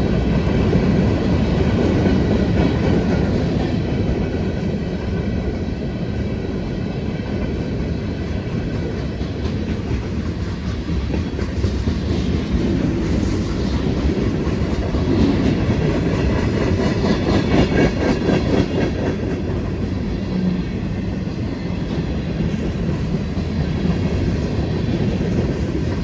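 Freight train cars rolling past, a steady rumble of steel wheels on rail with clickety-clack over the rail joints, the clicking busiest around the middle.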